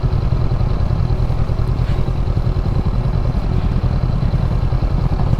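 Motorcycle engine running steadily at low revs while riding slowly over a rough, unpaved off-road stretch.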